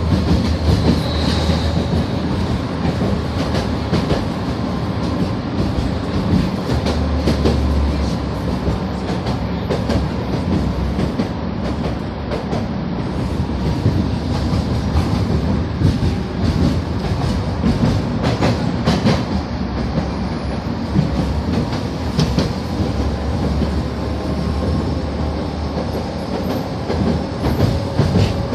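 Tatra T3SU tram running along the track: a steady rumble with irregular clacks as the wheels pass over rail joints, and a faint steady whine.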